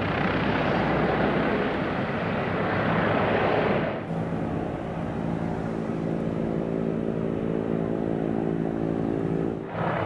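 A Piaggio P.180 Avanti's twin PT6A turboprop engines running on the ground, their pusher propellers turning. A rushing noise for about four seconds changes abruptly to a steady hum with a buzz of propeller tones.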